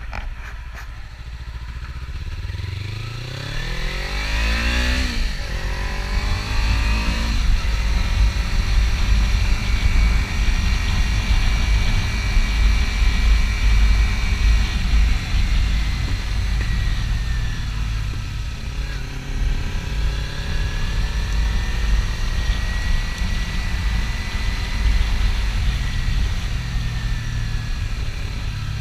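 Kawasaki Ninja 300's parallel-twin engine accelerating hard, revs climbing and dropping at two gear shifts within the first several seconds, then running steadily at cruising speed with a slow rise in revs later on, over a heavy rumble of wind noise.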